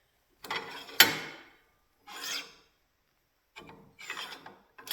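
Metal parts of a small belt knife sharpener being handled, likely the tool rest being slid and set: four short scraping rubs, with a sharp knock about a second in and another near the end. The motor is not running.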